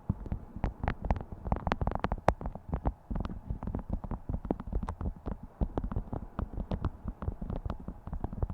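Beeswax wrap being crinkled and handled, giving a dense, irregular run of soft crackles and crinkles.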